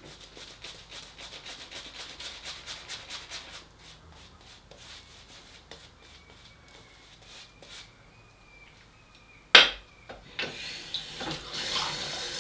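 Shaving lather being worked up, quick even rubbing strokes at about seven a second for the first few seconds, then slower, quieter rubs. A single sharp knock comes about nine and a half seconds in.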